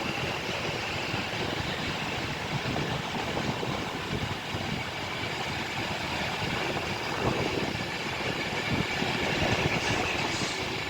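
Train running along the track: a steady rumble of wheels on rail with fine rapid clicks, growing a little louder in the later part.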